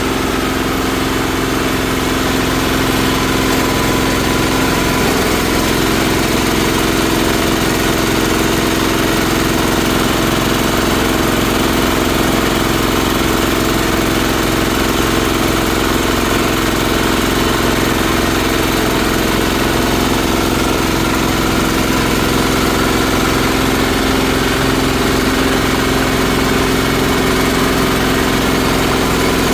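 Multipurpose shredder-grinder machine running with a steady, even engine-like drone, on a trial of shredding half-dried water hyacinth through an 8 mm screen.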